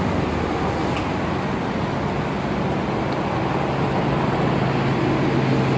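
Steady vehicle noise: a low, even engine hum with traffic noise, no distinct events.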